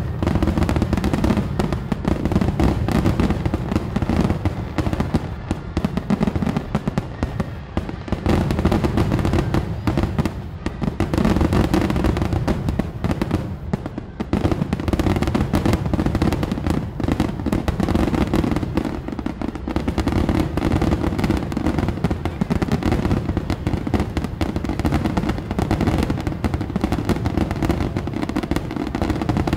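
Fireworks display: aerial shells bursting in a rapid, continuous barrage of booms with no pauses.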